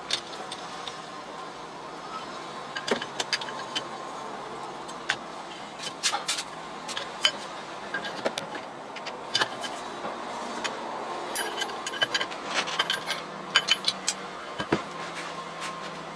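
Metal lathe running with a steady hum, with irregular sharp clicks and taps throughout.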